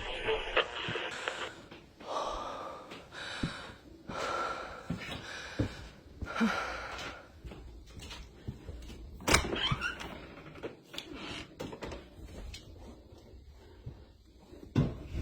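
Scattered clicks and knocks with stretches of rustling, and a brief gliding squeak about nine seconds in.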